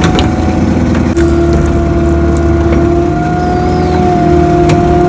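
Mini excavator running under load, its diesel engine rumbling with a steady hydraulic whine that grows louder about a second in, and a few sharp clanks.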